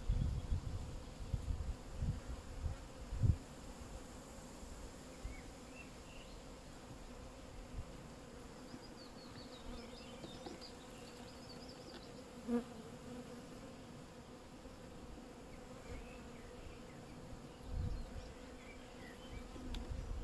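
Honeybee colony buzzing steadily as the open hive is worked, with a few low bumps in the first few seconds and again near the end.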